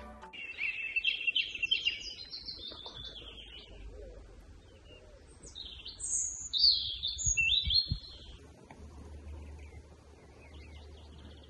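Wild songbirds singing: a run of quick, high chirping phrases in the first few seconds, then a second, higher and louder burst of chirps around the middle.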